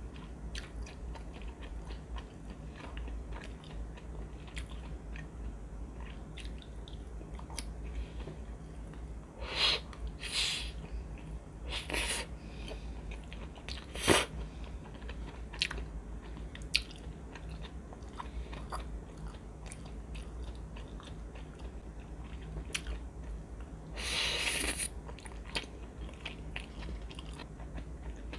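Close-miked eating sounds: soft, continual chewing and mouth clicks while eating rosé Shinramyun instant noodles, with a few louder noisy bursts, a sharp knock about halfway through and a longer burst of about a second near the end.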